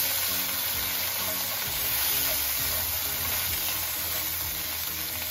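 Chicken wings and ginger slices sizzling in oil in a hot wok over high heat, with a spatula stirring and turning them.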